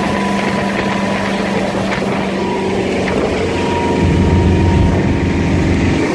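V-8 boat engine with through-hull exhaust running underway, over a steady rush of water and wind. About four seconds in, the exhaust note deepens and grows a little louder.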